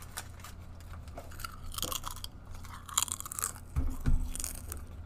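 Someone close to the microphone bites and chews thin, hard garlic plantain chips, crunching in several bursts. There is a low thump about four seconds in.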